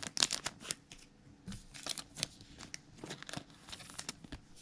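Trading cards being handled and shuffled by hand: a run of small clicks and light rustles, in two clusters.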